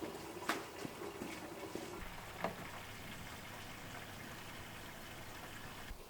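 Maple sap boiling in an evaporator pan: a faint, steady bubbling hiss, with a couple of small clicks.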